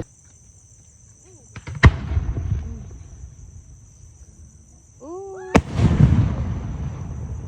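Two large aerial firework display shells bursting with sharp bangs, one about two seconds in and another about five and a half seconds in, each followed by a long rolling rumble. Crickets chirp steadily underneath.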